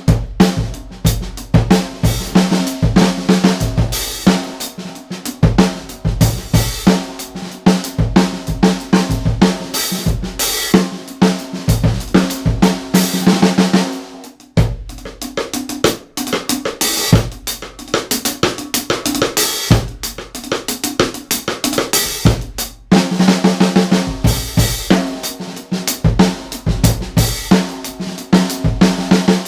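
A full drum kit played in a free-form groove: a PDP 6x14 wood hoop snare drum on a brand-new head, tuned low-medium, with kick drum, hi-hat and cymbals, heard through an in-room GoPro microphone. The playing pauses briefly twice, about halfway through and again about two-thirds of the way in.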